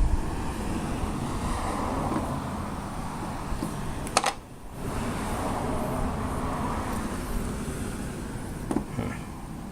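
A screwdriver prying at old nails in a wooden hatchet handle. A sharp metal click rings briefly about four seconds in, and a smaller knock comes near the end, over a steady rumbling background noise.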